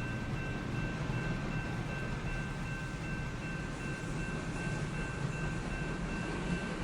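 A CN intermodal freight train rolling past with a steady low rumble. Two faint, steady high tones sit over the rumble.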